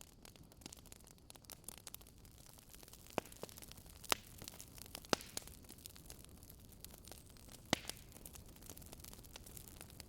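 Wood fire crackling in a fireplace: a soft, steady hiss dotted with sharp pops, the loudest about four, five and nearly eight seconds in.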